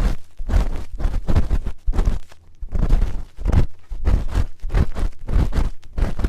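A spoon rubbing and scraping against an ear-shaped ASMR microphone in repeated strokes, about two a second. Each stroke has a deep rumble from contact with the microphone.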